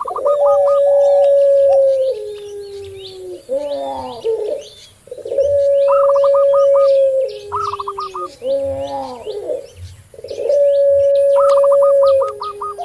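Puter pelung dove giving its long coo three times: a long, steady note held for about two seconds that steps down to a lower pitch at the end. Other doves coo in between, with quick repeated higher notes. Small birds chirp faintly throughout.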